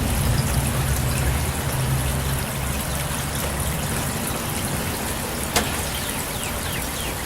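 Steady rush of infiltration water running into a manhole, with a low engine hum beneath it that fades after a couple of seconds. A single sharp click about five and a half seconds in.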